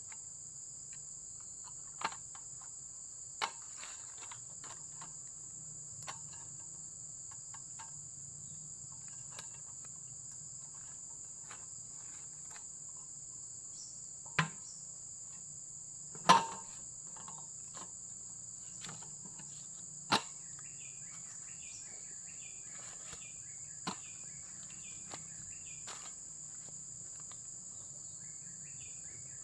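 A steady, high-pitched insect chorus of crickets, with a scattering of sharp knocks and clicks, the loudest about halfway through. Faint repeated chirps join in the last several seconds.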